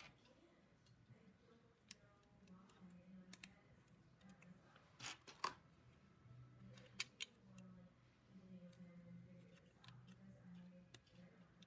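LEGO plastic pieces being handled and snapped together: sparse sharp clicks, loudest in a cluster about five seconds in and a close pair about seven seconds in, over a faint low hum.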